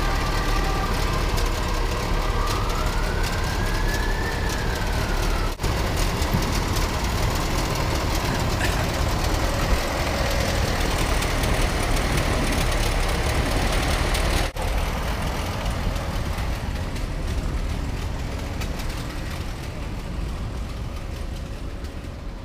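Car engines and road noise from passing vehicles, a steady dense rumble that breaks off abruptly twice and fades a little toward the end.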